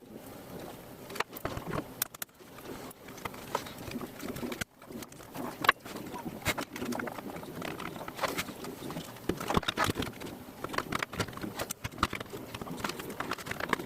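Irregular clicks, taps and knocks of plastic and metal parts being handled while a VCR is reassembled, with a sudden break about five seconds in.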